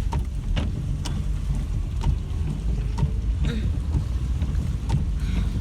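Rain on a car heard from inside the cabin: a steady low rumble with scattered sharp ticks of drops striking the body.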